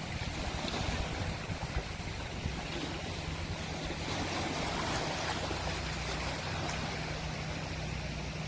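Sea waves washing on the shore, a steady rush that swells slightly partway through, with a faint steady low hum underneath.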